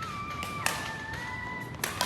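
Badminton rally: two sharp racket hits on the shuttlecock, about two-thirds of a second in and again near the end. Between them, long high squeaks of court shoes on the floor.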